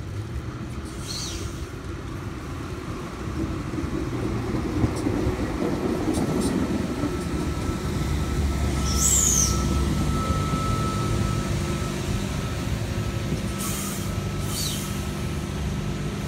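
A NSW TrainLink V-set double-deck intercity electric train arrives and rolls past close by, its rumble building over the first several seconds and then holding steady. Its wheels give short high squeals about a second in, near the middle and again near the end, and a thin steady whine runs through the middle.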